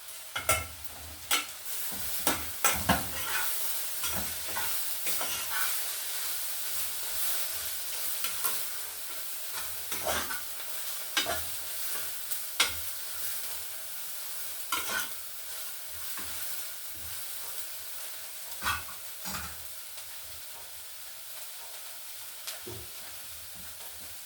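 Omena (small silver fish) sizzling as they fry in a saucepan, with a spoon stirring them and repeatedly knocking and scraping against the pan. The steady sizzle runs underneath, and the clatter of the spoon is busiest in the first half.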